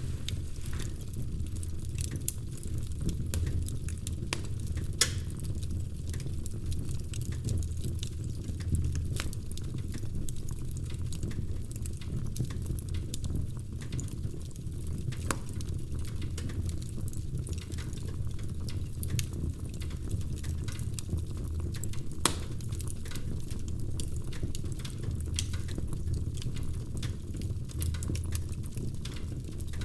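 Wood fire in a fireplace crackling steadily over the low rumble of the flames, with a few louder pops, at about 5, 9, 15 and 22 seconds in.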